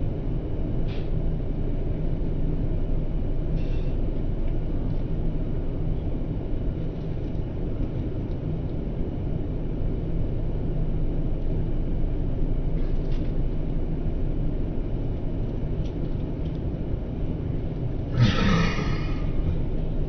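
Steady low rumble of an airliner cabin in flight, with a few faint clicks and one short, louder sound near the end.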